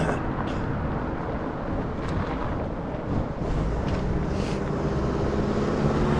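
Wind buffeting the microphone with a steady low rumble while riding a fat bike; from about four seconds in, a low steady hum joins it.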